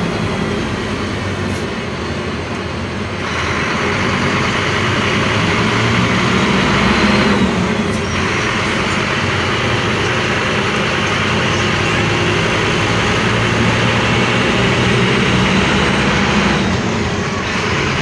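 Scania bus running along the road: a steady low engine hum under a hiss of road and tyre noise. The hiss steps up and down abruptly a few times.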